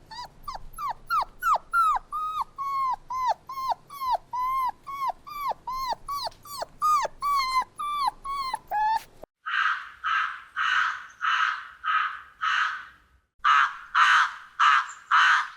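A dog yelping over and over in short, high calls that drop in pitch, two or three a second. After an abrupt cut come about ten harsher, noisier calls in two runs, with a short gap between the runs.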